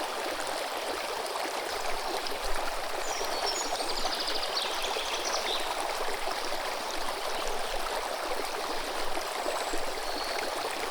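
Running water of a river flowing steadily. A brief, high bird call sounds over it about three seconds in.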